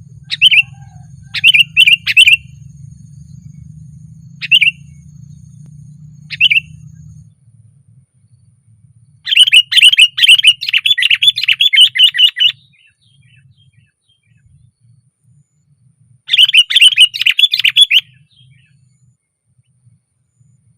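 Sooty-headed bulbul calling: a few short, loud calls in the first several seconds, then two fast runs of rapidly repeated notes, one about three seconds long near the middle and a shorter one later.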